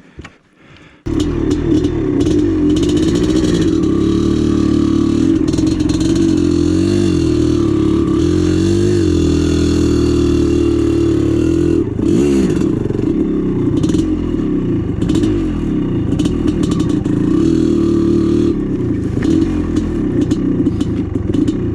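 1996 Maico 440 two-stroke dirt bike engine running under load, its pitch rising and falling as the throttle is worked, with scattered clattering knocks. It starts abruptly about a second in.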